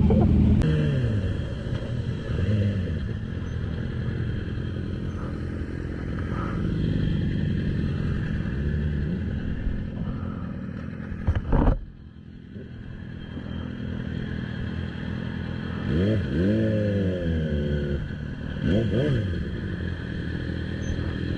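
Motorcycle engine running while riding, its pitch rising and falling with the throttle. There is a brief, sharp loud noise about halfway through, then a quieter spell, and the engine revs up twice in the last few seconds.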